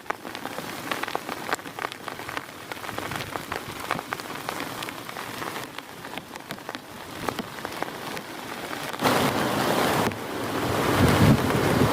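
Heavy rain falling, with many separate drops striking a hard surface close by. About nine seconds in, it turns abruptly into a much louder, dense downpour.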